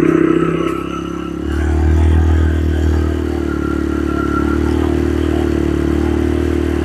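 Motorcycle engine pulling up a steep dirt track under load. About a second and a half in, its note shifts down and then holds steady.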